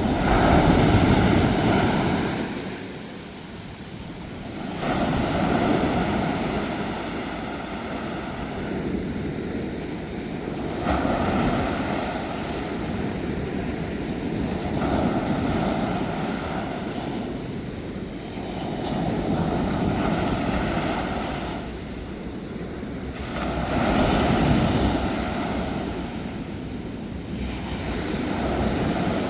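Sea waves washing onto a shore, each wave swelling up and falling away about every four to five seconds.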